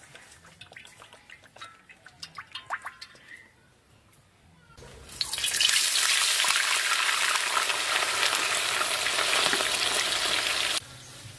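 Chicken pieces dropped into hot oil in a wok, sizzling loudly and steadily for about six seconds before the sound cuts off abruptly. Before that there are only faint clicks and short chirps.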